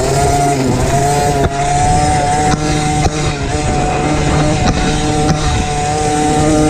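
Engine of a 50cc mini motocross bike running at high revs under way, its pitch holding fairly level with small dips and rises as the throttle is eased and opened, with a few sharp knocks over it.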